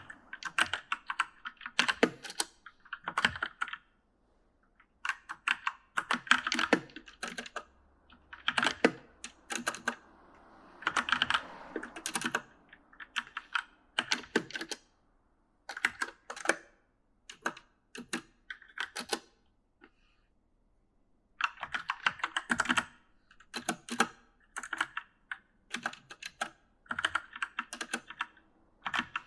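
Typing on a mechanical gaming keyboard: bursts of quick key clicks with short pauses between them, and a longer break about halfway through.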